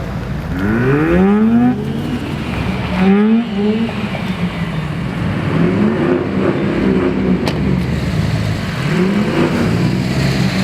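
Car engines revving as cars pull away and accelerate: a sharp rise in pitch about half a second in that cuts off suddenly, two short revs around three seconds in, then more engine notes rising and falling later on.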